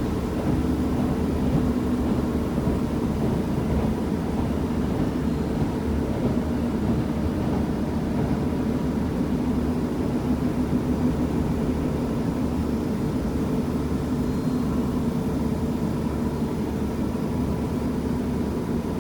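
KiHa 75 diesel railcar running along the line, heard from inside the passenger car: a steady diesel engine drone with a low rumble of wheels on rail. The level stays even, easing off slightly near the end.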